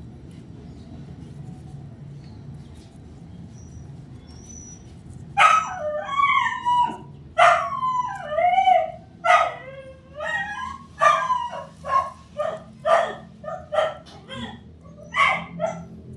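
A dog barking and yelping in a quick series of about a dozen loud barks, starting about five seconds in, over a low steady background hum.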